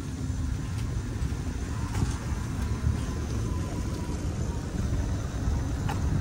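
Street traffic with a steady low rumble of cars.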